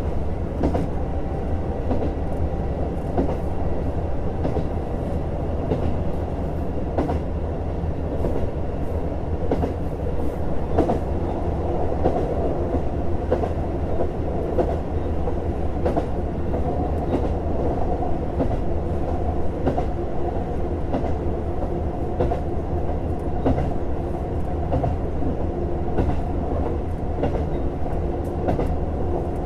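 JR Hokkaido KiHa 150 diesel railcar under way, heard from inside the car. Its engine and running gear give a steady rumble with a few held tones, and the wheels click many times over the rails.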